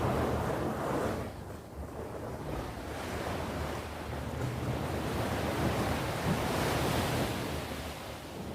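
Sea waves washing on the shore: one wash fades about a second in, and another builds and then recedes near the end. A low, steady rumble of wind on the microphone runs underneath.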